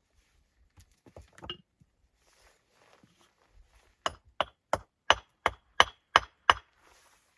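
A hand tool striking wood: a few light knocks, then eight sharp, evenly spaced strikes at about three a second, each with a slight ring.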